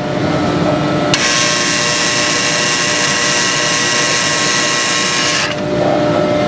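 Wire twisters on a Compac Specialties auto-tie baler running, a high-pitched, drill-like whine that starts about a second in and stops near the end, while the needle rack is fully extended. A steady lower hum continues underneath.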